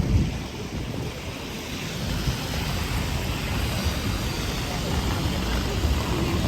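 Wind rumbling on the microphone over a steady hiss of rain and wet street traffic.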